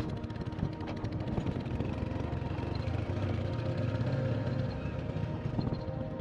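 Royal Enfield Hunter 350's single-cylinder engine running on the move, with background music over it.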